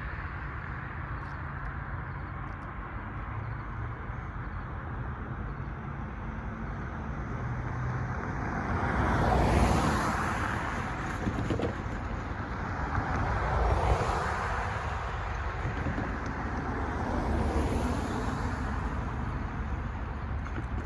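Road traffic at a railroad grade crossing: a steady low background rumble, with three vehicles passing one after another, each swelling and fading as it goes by.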